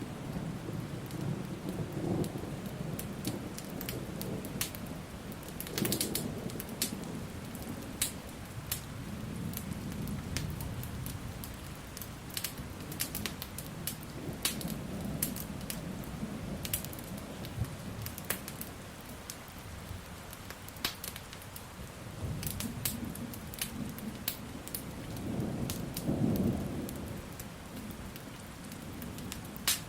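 Steady rain with several rolling rumbles of thunder, the strongest near the end, over the sharp pops and snaps of a crackling wood fire.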